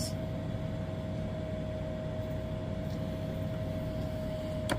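Steady background hum with a constant high whine, unchanged throughout, and a faint click just before the end.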